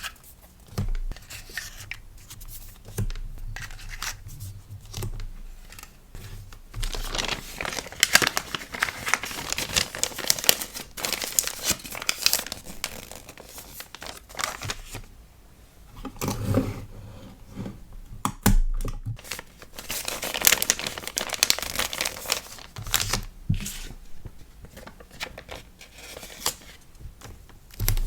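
Packaging being handled to pack an order of stickers: crinkling and crumpling with tearing sounds, in irregular spells that grow dense and busy for a few seconds at a time.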